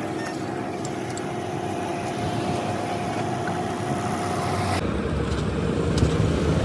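Motor vehicle engine running steadily. About five seconds in the sound changes abruptly to a lower, heavier engine note.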